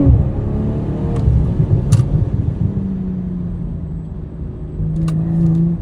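BMW M440i's turbocharged 3.0-litre B58 inline-six heard through its exhaust: the revs drop off sharply at the start, then it runs with a low rumble broken by two sharp cracks, and the engine note strengthens again near the end.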